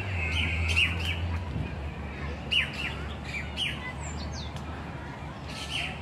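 Songbirds chirping: repeated short, high chirps, many sweeping quickly downward, coming in small clusters. A low steady hum underneath fades after about a second and a half.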